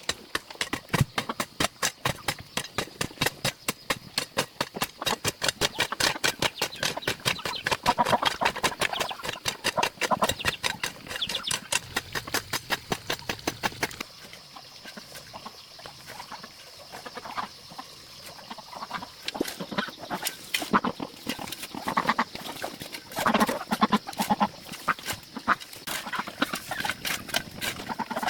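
Chickens and ducks clucking and calling over a fast run of sharp taps, about four or five a second, that changes character about halfway through.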